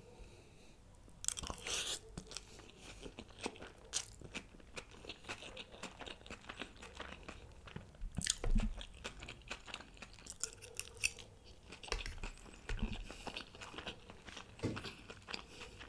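Close-miked chewing of a mouthful of chicken schezwan noodles: a steady string of small wet mouth clicks, with louder bursts of chewing about a second and a half in, around eight and a half seconds, and again near the end.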